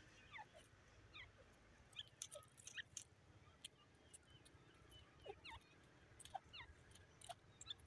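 Faint, short falling chirps from birds, scattered irregularly, with a few soft ticks between them.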